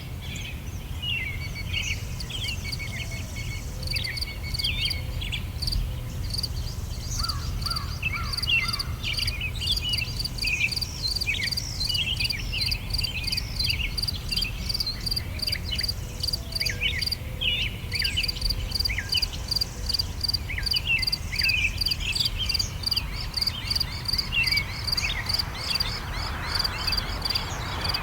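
Several songbirds chirping and trilling over an insect's fast, evenly pulsing chirp, with a steady low rumble underneath. The insect chirp comes in about four seconds in and stops briefly a few times.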